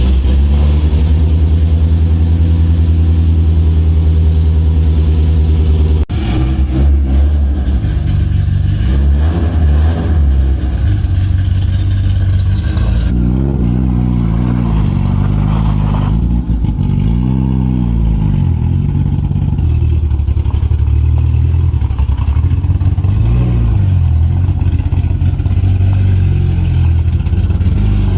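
Honda S2000's four-cylinder engine running loudly, steady at first, then revved up and back down several times about halfway through.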